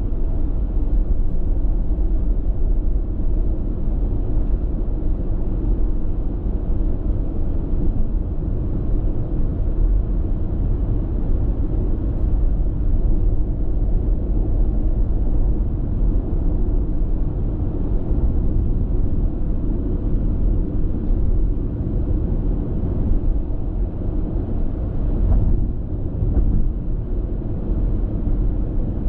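Steady road noise inside a car's cabin while cruising on an expressway: an even rumble of tyres and engine, heaviest in the low end. There is one brief bump about 25 seconds in.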